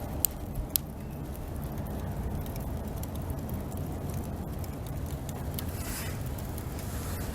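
Bonfire burning, with two sharp pops in its first second over a steady low rumble.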